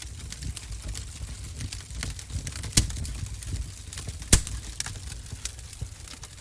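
Wood fire burning in a fireplace, crackling with frequent sharp pops over a low, steady rumble of flame. Two pops, a little under three seconds in and just after four seconds, are louder than the rest.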